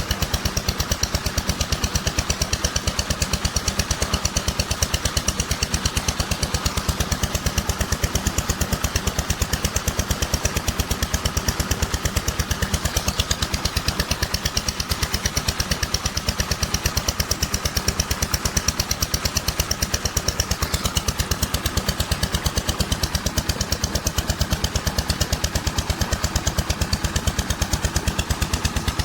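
Stationary diesel engine running a tubewell pump at steady speed, its exhaust beating in a fast, even rhythm.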